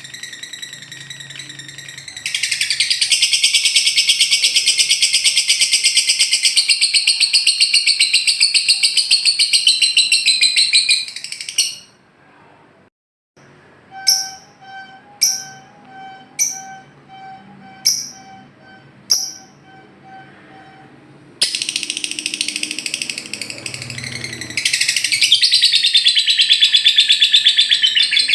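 Lovebirds singing the ngekek song: long, very rapid, high-pitched chattering trills. About halfway through the trilling breaks off, and a run of separate short calls comes about once a second before the long trill starts again.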